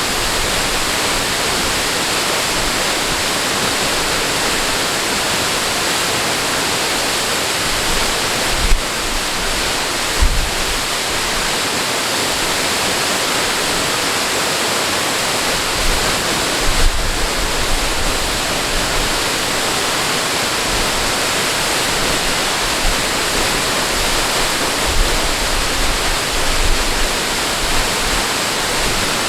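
Steady, even rush of falling water, as from a waterfall, with a few brief low bumps.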